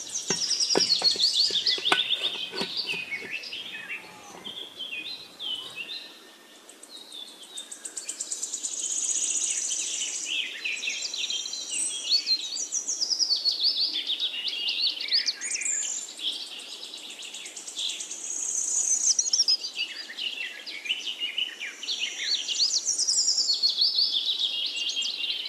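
Several birds chirping and singing together in quick, varied high-pitched phrases, rising and falling in strength. A few sharp clicks come in the first few seconds.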